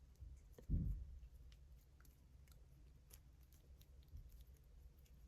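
Faint clicks and light rustles of small plastic miniature flower parts being handled and fitted together. A soft, low thump comes about a second in.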